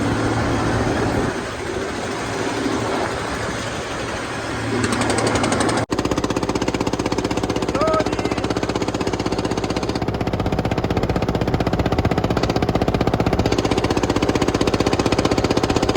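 Diesel tractor engine running with a fast, even thumping beat. The sound breaks off for a moment about six seconds in, then carries on.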